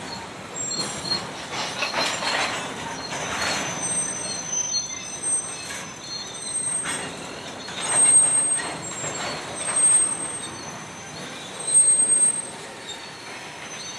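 Freight cars (covered hoppers and tank cars) rolling past on steel wheels: a steady rumble of wheels on rail with high squealing tones that come and go, and louder swells about every two seconds in the second half.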